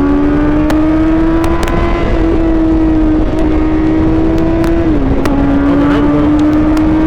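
Suzuki GSX-R750 sportbike engine running under steady throttle while riding, its pitch creeping slowly upward with a brief dip about five seconds in.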